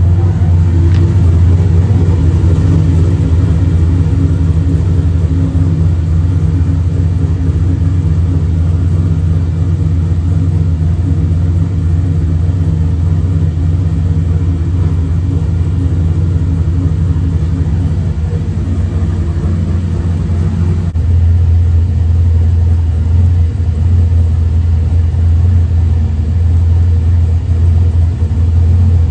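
Steady low engine and road drone heard from inside a moving vehicle, its pitch changing slightly about twenty seconds in.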